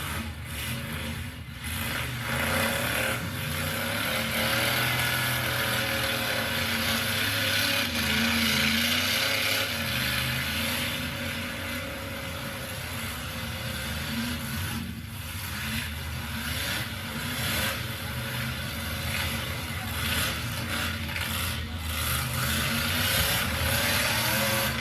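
Demolition-derby pickup truck engines running hard and revving, rising and falling in pitch over a steady din.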